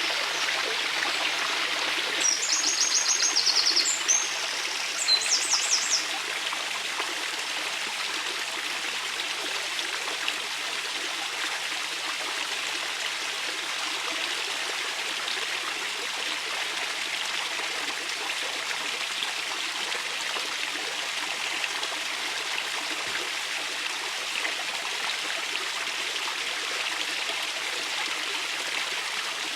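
Small river running steadily over stones, a constant rushing trickle. About two seconds in, a small bird sings two short, rapid, high trills a second apart.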